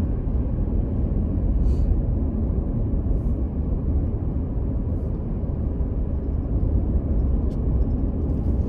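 Steady road and engine rumble of a car driving along, heard inside the cabin.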